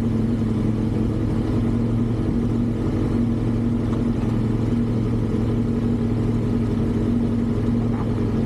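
A vehicle engine running steadily at an unchanging speed, with no revving.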